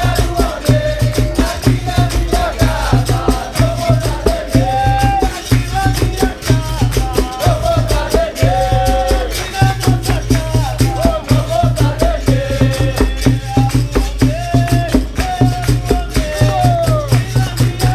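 Capoeira roda music: berimbau with its caxixi rattle and hand percussion keeping a steady beat, under singing.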